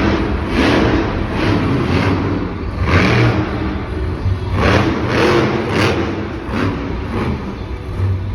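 Monster truck engine revving hard in repeated surges, rising and falling about once or twice a second.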